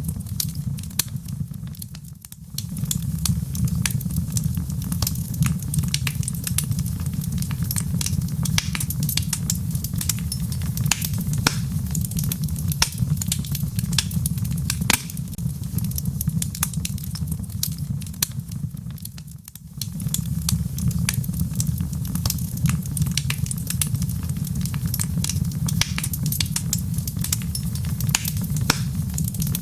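Wood fire burning in a fireplace: logs crackling and popping in dense, irregular snaps over a steady low rumble of the flames. The rumble drops away briefly twice, about two seconds in and again about two-thirds of the way through.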